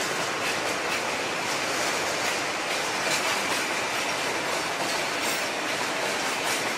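Freight train wagons rolling slowly past, their steel wheels running on the rails in a steady rumbling clatter with many fine rapid clicks.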